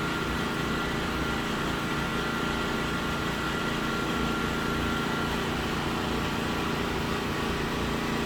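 A small engine or motor running steadily: a constant drone with a few unchanging whining tones.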